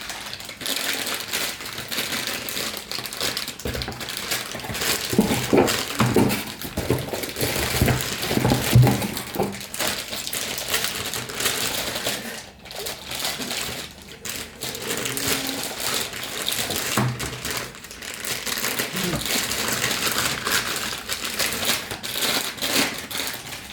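Rustling and crinkling with many scattered clicks and a few low knocks, loudest a few seconds in and again just before halfway.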